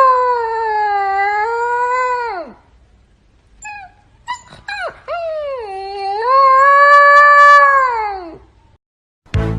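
Husky howling: two long howls, the first trailing off downward about two and a half seconds in, the second starting about five seconds in and ending a little after eight seconds. A few short whimpers come between them.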